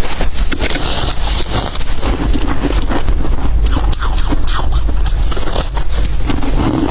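Freezer frost and ice being scraped and bitten, with dense, irregular crunching close to the microphone.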